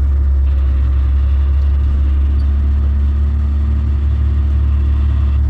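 Steady low rumble of a vehicle heard from inside the cab, with a faint steady hum joining about two seconds in.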